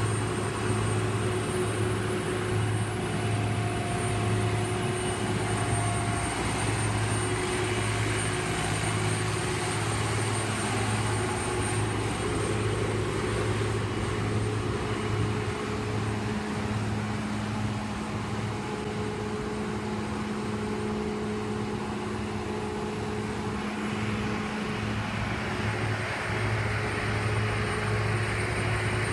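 Heavy road-repair machinery running steadily: a constant low engine drone with a few steady higher tones over it.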